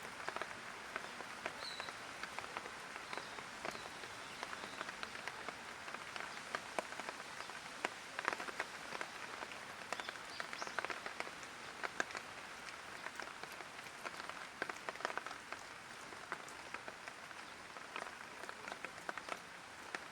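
Light rain falling: a steady patter with many separate drops tapping close by.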